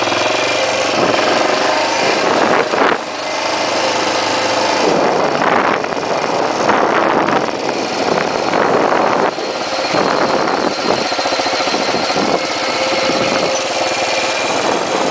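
1980 Yamaha XT500's single-cylinder four-stroke thumper engine running while the bike is ridden along, its note dipping briefly about three seconds in and again around nine seconds.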